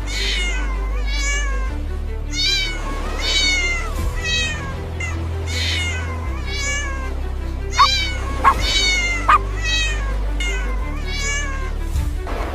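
A cat meowing over and over, about one meow a second, with three short, sharp, louder cries near the middle. Background music with sustained low bass notes plays underneath.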